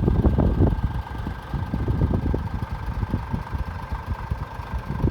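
Scania S500's 13-litre inline-six diesel engine idling, a low uneven rumble that is loudest in the first moment and then settles, with a steady high whine above it.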